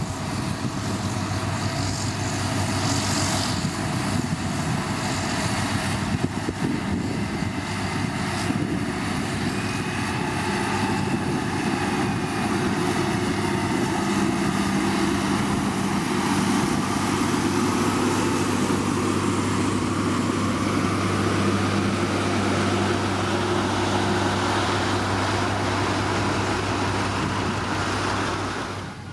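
Heavy diesel motor grader engine running steadily as it works gravel, a constant low hum under a broad rush of mechanical noise.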